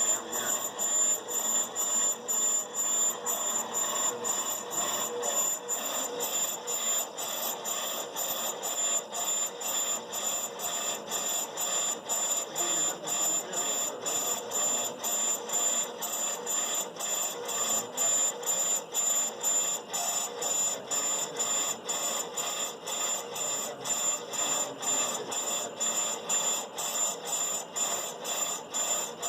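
Brake lathe turning a brake rotor while the cutting bit takes a pass, giving a high, steady whine with an even pulse a couple of times a second. The rotor is taken to be badly warped, with a shiny spot the cut has not yet reached.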